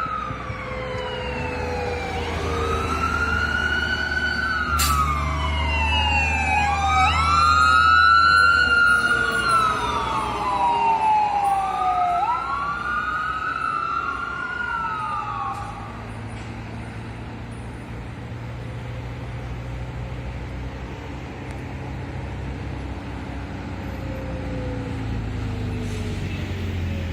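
Fire rescue engine's siren wailing, sweeping up and down every couple of seconds, with a second siren wail overlapping it in the middle. The sirens stop about sixteen seconds in, leaving the low rumble of the truck's engine.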